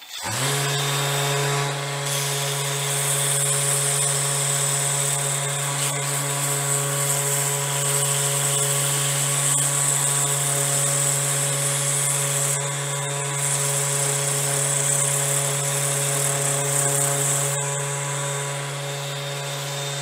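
Electric random orbit sander switched on and running steadily, with a constant motor hum under the hiss of the abrasive disc sanding a wood edge.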